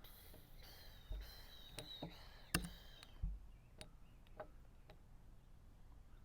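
Chess pieces set down on the board and a chess clock tapped in a blitz game: a quick string of about nine sharp clicks and knocks, the loudest about two and a half seconds in.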